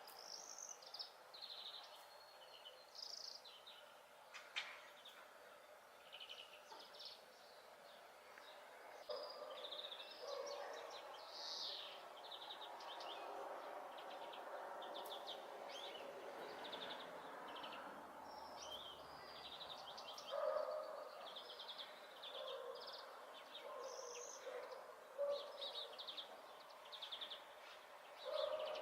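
European greenfinch singing: a long run of short, high twittering chirps and trills, over faint background noise.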